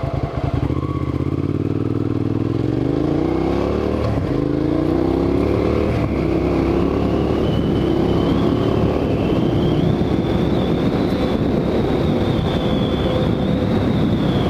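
Motorcycle engine pulling away under acceleration, revs climbing, dropping at a gear change about four seconds in, climbing again, then holding a steady high note at cruising speed with wind rush.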